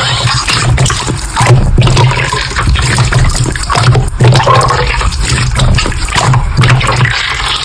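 Slime being squished and kneaded by hand, giving loud, continuous wet squelching and crackling.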